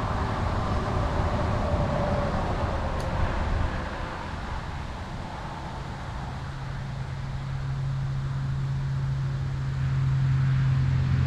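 A steady low engine hum, like a motor vehicle, that grows louder over the second half.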